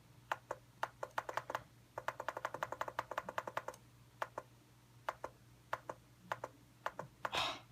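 Typing on a computer keyboard: scattered key clicks, then a quick run of about ten keystrokes a second in the middle, then scattered clicks again. A short rustle comes near the end.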